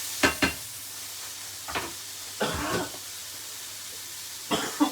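Pineapple chunks sizzling in a hot frying pan, a steady hiss, broken by several short knocks and scrapes about a second in, midway and near the end.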